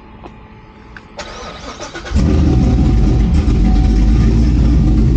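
Chevrolet C7 Corvette Z06's supercharged LT4 V8, fitted with a BTR Stage 2 performance cam, cranking briefly about a second in and catching about two seconds in. It then idles loudly with a choppy cam idle on its first start after the cam install.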